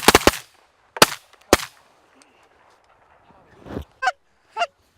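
A volley of shotgun shots from several hunters, four or five sharp blasts in the first second and a half. Near the end, two short goose honks.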